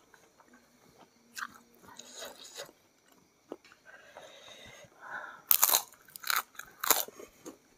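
Close-up chewing and crunching of crispy kerupuk crackers by mouth, quiet at first, then a run of loud crunches in the second half.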